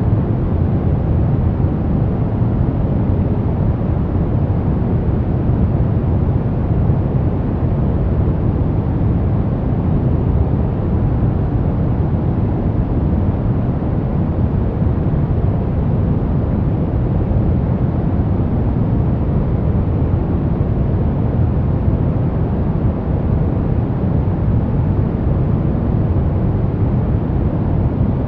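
Steady baby-sleep white noise, an even hiss weighted toward the low end so it sounds deep and rumbly, with no changes in level or pattern.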